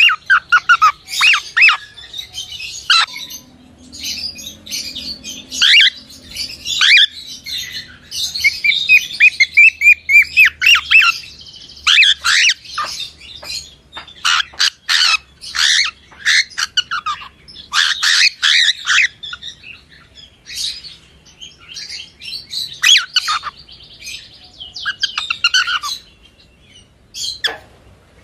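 Cockatiel chirping and squawking: a dense run of short, sharp calls that swoop up and down in pitch, with a quick trill of repeated notes about ten seconds in.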